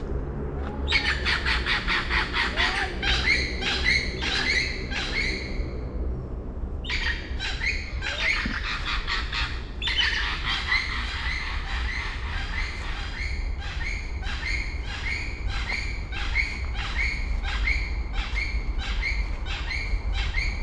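Birds calling in quick, evenly repeated squawking notes, about four a second, in three runs with short breaks about six and ten seconds in, over a steady low rumble.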